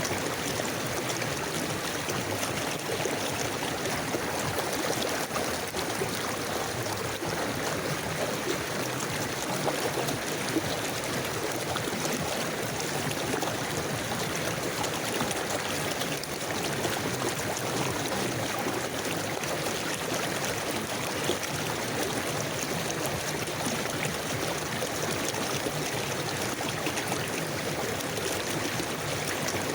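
A river flowing steadily: an even, unbroken rush of running water.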